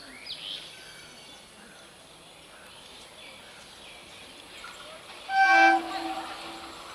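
Short blast of an electric multiple unit train's horn: one steady note about five seconds in, loud for half a second and then trailing off, over the steady background noise of the railway. A brief high squeal sounds just after the start.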